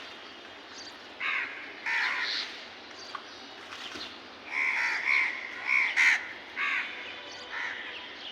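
Several crows cawing, short harsh calls repeated and overlapping, coming most thickly a little past the middle.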